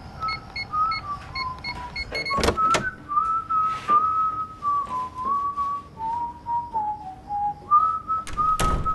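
A person whistling a slow tune, one clear note at a time, stepping up and down. Pairs of sharp knocks come about two and a half seconds in and again near the end.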